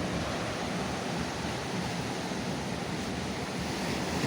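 Steady rush of rough ocean surf on a rocky shore, with wind on the microphone.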